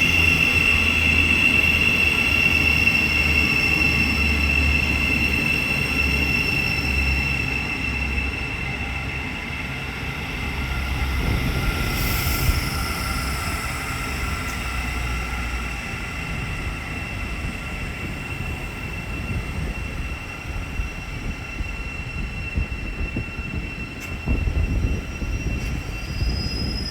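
Thameslink Class 700 electric multiple unit standing at the platform: a steady high whine from its electrical equipment over a low rumble, the whine fading after about eight seconds. A short hiss about twelve seconds in.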